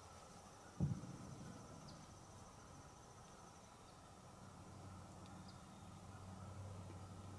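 Faint high-pitched insect trill, a rapid even pulsing that stops about halfway through. A single dull thump comes a little under a second in, over a low steady hum.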